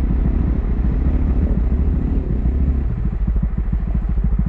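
Pit bike single-cylinder engine running steadily at low revs, with its even, rapid firing pulses.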